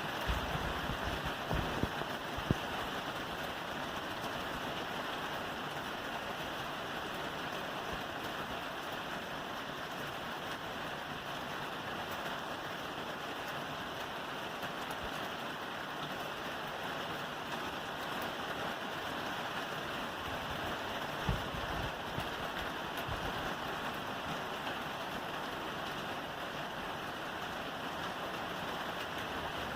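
Steady rain falling on a roof, an even patter throughout, with a few brief low thumps near the start and about two-thirds of the way through.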